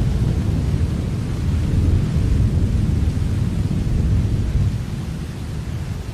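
Steady rain falling, with a continuous deep rumble underneath that eases a little near the end.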